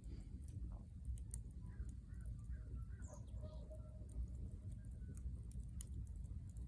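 Campfire crackling with scattered sharp pops over a low steady rumble. Short bird calls chirp in the background between about one and four seconds in.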